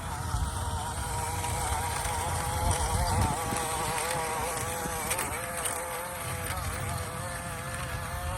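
Small brushed 370 electric motor and metal gearbox of a 1/16 RC crawler truck whining as it crawls, the pitch wavering up and down with the throttle, over a low rumble that swells about three seconds in.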